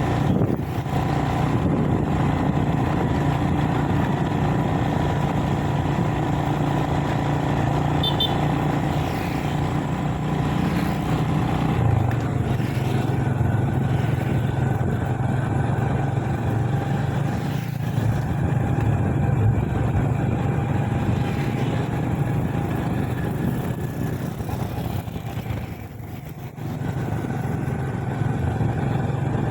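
Motorbike engine running steadily as it rides along. Its pitch drops a little about twelve seconds in, and near the end it eases off briefly before picking up again.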